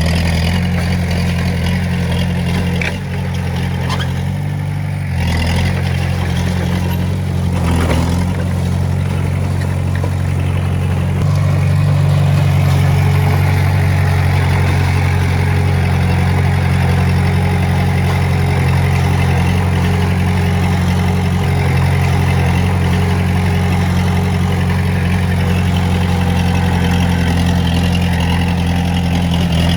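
Diesel engine of a Komatsu D20A bulldozer running steadily while working, with a brief dip about three seconds in and a slightly louder, steady run from about eleven seconds in.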